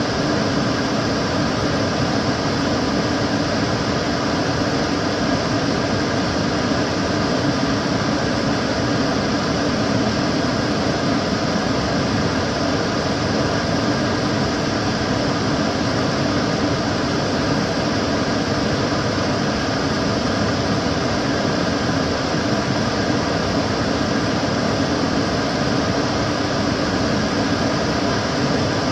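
Kitchen cooker hood extractor fan running steadily: an even rushing of air with a low hum and faint steady tones from the motor.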